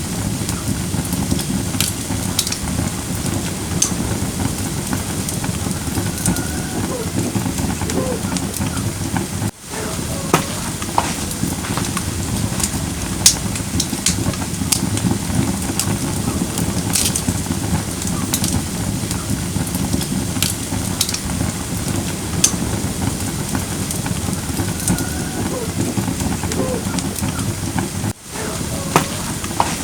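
Firewood burning in a fire pit: a steady rushing crackle with scattered sharp pops and snaps. The sound dips briefly twice, about ten seconds in and near the end.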